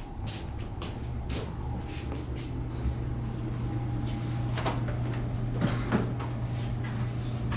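A steady low hum of running equipment, with scattered clicks and knocks of tools and parts being handled, the strongest of them about five to six seconds in.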